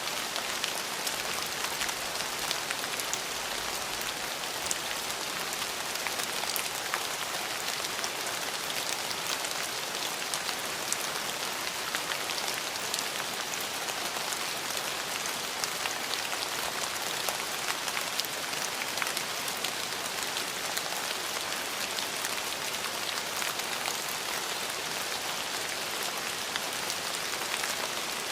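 Steady rain falling on a surface, an even hiss with many small individual drop ticks scattered through it.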